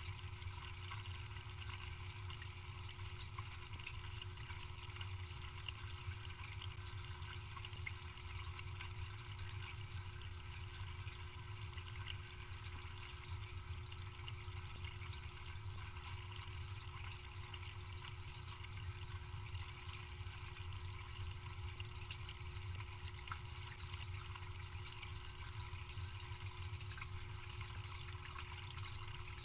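Dishwasher running: steady water noise inside the tub over a constant low pump hum.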